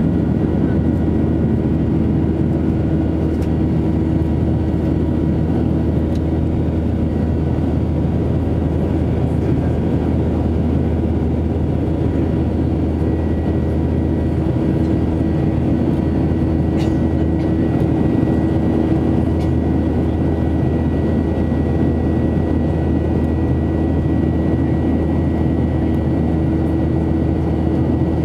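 Steady drone of a Boeing 737-800's jet engines and the rushing airflow, heard from inside the passenger cabin in flight shortly after takeoff. A constant low hum and a fainter high whine run through it.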